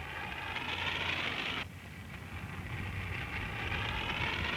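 Steady outdoor background hiss on an old film soundtrack. It breaks off abruptly about a second and a half in, then resumes.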